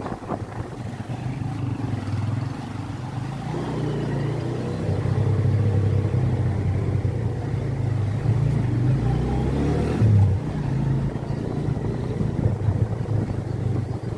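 Motorcycle engine running steadily while riding, getting louder a few seconds in, with a brief loud bump about ten seconds in.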